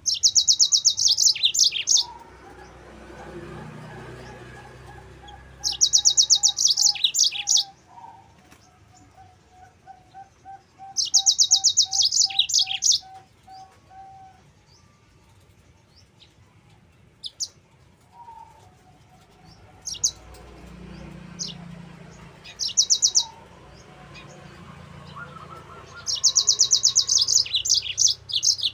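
Yellow-fronted canary (burung mozambik) singing in repeated bursts of rapid, high trilling song, each about two seconds long with pauses between.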